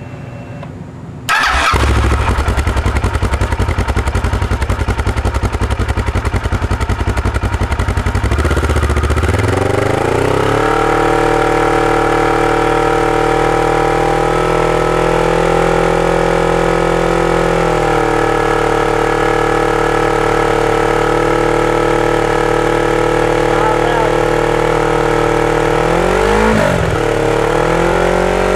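Kawasaki Ninja 650R's parallel-twin engine through its stock exhaust, starting about a second in. It runs at a low speed at first, then its pitch rises over a couple of seconds to a steady idle. Near the end it gives a brief dip and rise in pitch.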